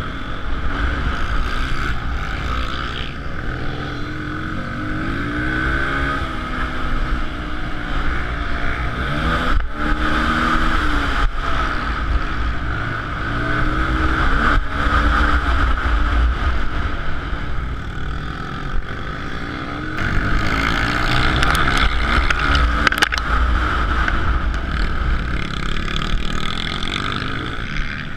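Suzuki DR-Z125L pit bike's single-cylinder four-stroke engine under hard riding, revving up and dropping back over and over as the throttle is worked through the gears.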